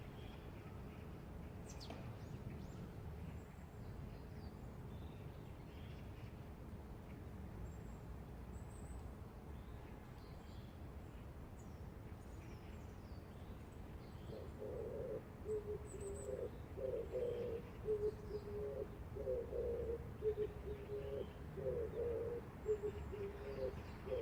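Steady low city hum with faint high chirps of small birds. About halfway through, a pigeon starts cooing, a run of low warbling coos repeated to the end.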